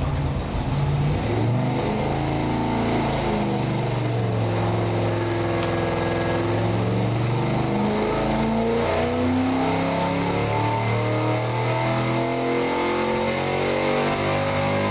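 Performance V8 engine on a dynamometer making a full-throttle pull, its pitch rising steadily as the rpm climbs. Near the top of the pull the builders believe the ignition points are giving out, causing a slight misfire.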